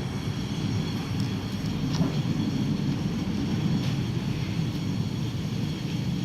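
Steam locomotive and its train rolling into a station: a steady low rumble of wheels on the track, with a few faint ticks.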